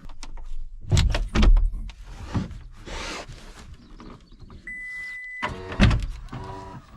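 Knocks and clattering of gear or doors being handled, with a rustle in the middle. A short steady electronic beep sounds about five seconds in, followed by a loud knock and a brief creaking squeak.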